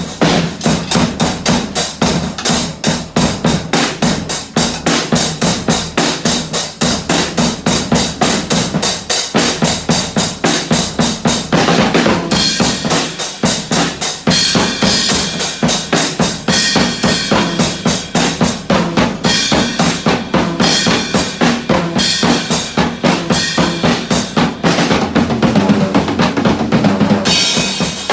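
Drumming: fast, steady strokes, several a second, going on without a break.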